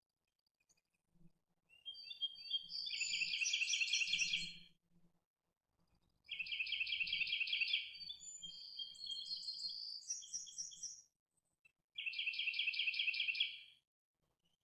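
A songbird singing three songs with short pauses between them, each built on a fast trill of rapidly repeated high notes; the middle song runs longer and ends in higher notes.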